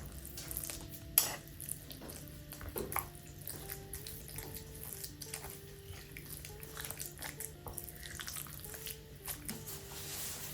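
Soft background music over kitchen prep sounds: watery splashing and clinking, with one sharp knock about a second in.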